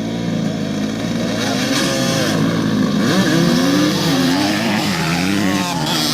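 Off-road motorcycle engine revving up and down repeatedly, its pitch rising and falling throughout.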